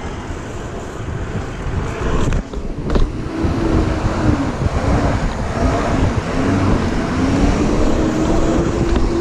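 City street traffic with a vehicle engine humming, its pitch wavering up and down in the middle and then holding steady near the end.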